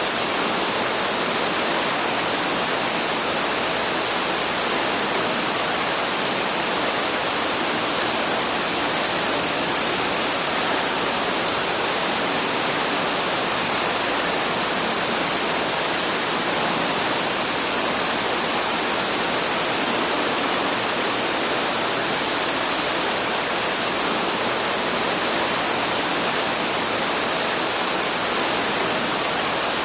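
Waterfall rushing with a steady, unchanging hiss of falling water.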